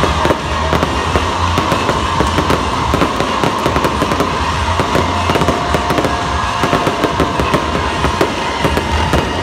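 Fireworks going off in quick succession: a dense run of sharp bangs and crackles over a steady background din.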